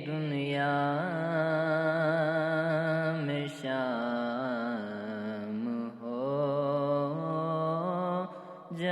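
A voice singing an Urdu naat in long, drawn-out held notes with a slight waver in pitch and slow glides between notes. The singing breaks briefly about three times, for breath.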